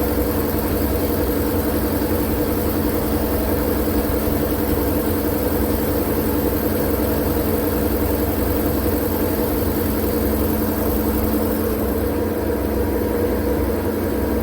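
Steady white noise for sleep: an unchanging machine-like drone with a low hum and no breaks.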